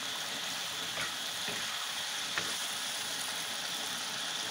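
Duck curry sizzling and bubbling in a black iron kadai, stirred with a metal ladle that clinks lightly against the pan a couple of times.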